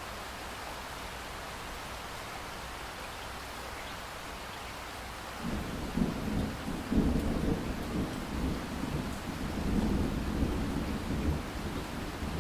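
Steady rain hiss, joined about five and a half seconds in by a long rolling rumble of thunder that swells several times.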